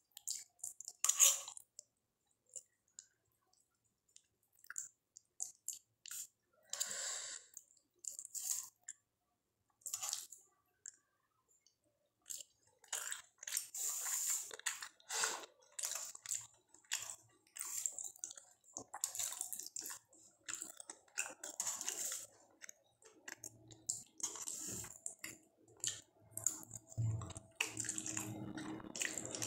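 Close-up mouth sounds of a person eating soft, soupy instant noodles: wet chewing and slurping in irregular bursts with silent gaps, coming more often in the second half. A low steady hum joins near the end.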